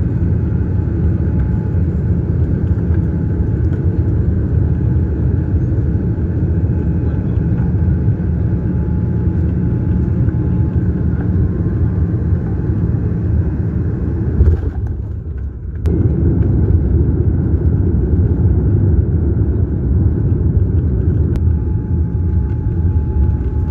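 Steady low rumble of airliner cabin noise as the plane descends to land. It briefly dips about fifteen seconds in.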